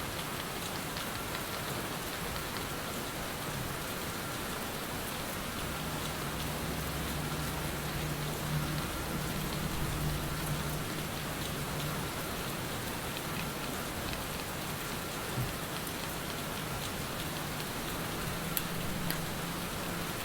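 Steady rain falling, a recorded rain background, with faint scattered ticks of drops. A low hum swells in the middle and fades.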